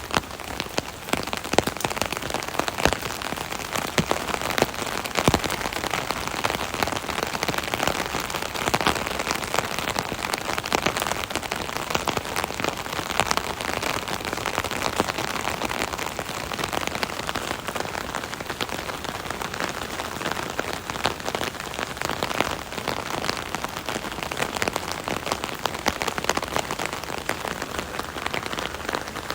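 Steady rain drumming on an umbrella canopy overhead, a dense patter of individual drop hits over a continuous wash of rain.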